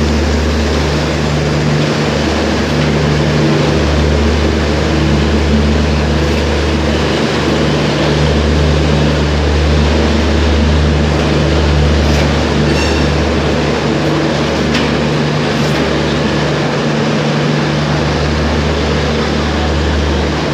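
LHB passenger coaches of a Rajdhani Express rolling slowly past along a platform: steady running noise with a continuous low hum.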